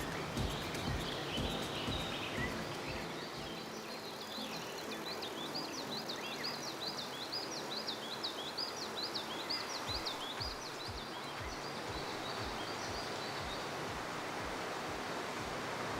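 A small bird sings a fast run of repeated high chirps from about three to thirteen seconds in. Under it is a steady rushing noise with low thumps near the start and again around ten seconds in, typical of wind on the microphone while cycling.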